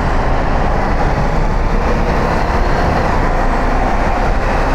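Steady rumble of a motorcycle on the move, engine and wind noise on the microphone mixed together.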